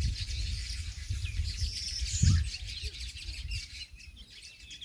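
Several birds chirping and twittering, many short calls overlapping. Under them a low rumble on the microphone, loudest about two seconds in.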